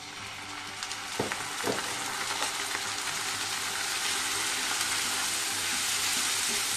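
Spice pastes and onions sizzling in hot mustard oil in a stainless steel kadai as a little water is added. The sizzle swells over the first couple of seconds, then runs steadily while a metal spatula stirs, with two light knocks of the spatula on the pan about a second in.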